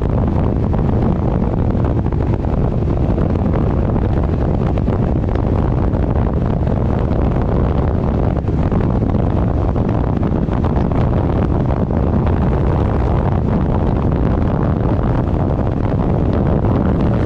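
Loud, steady wind noise buffeting the microphone of a motorcycle riding at speed, with the ride's vehicle noise underneath.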